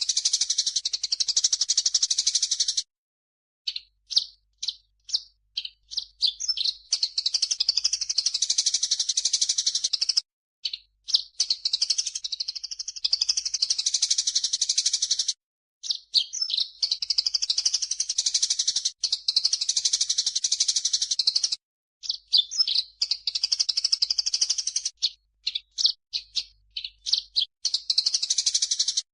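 Bird-song training recording mixing cucak jenggot (grey-cheeked bulbul) and burung gereja (Eurasian tree sparrow) calls. It is rapid, dense, high-pitched chattering in phrases of several seconds, separated by brief pauses with quick single chirps.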